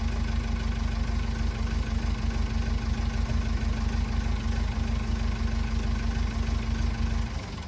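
Massey Ferguson backhoe's engine running steadily at an even speed, then dying away near the end.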